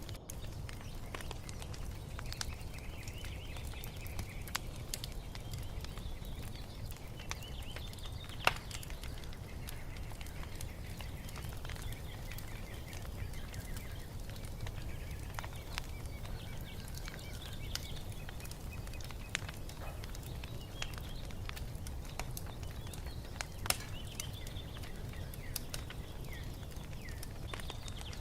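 Wood fire crackling with scattered sharp pops, two of them louder, over a low steady rumble, while birds chirp and sing in short phrases throughout.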